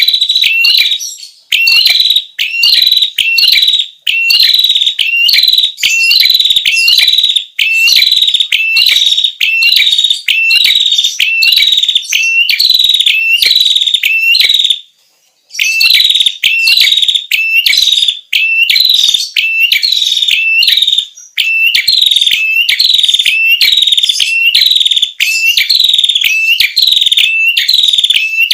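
Prenjak kepala merah song, played as a lure recording: loud, rapidly repeated sharp chirping notes that hook up and down in pitch, about one to two a second, with a short pause about halfway through.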